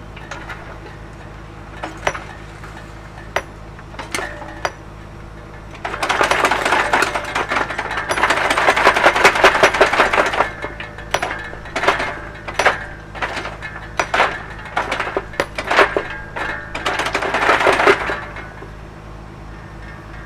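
Excavator engine running steadily, with a few sharp knocks of stone, then a long stretch of stones clattering and scraping against each other from about six seconds in until near the end.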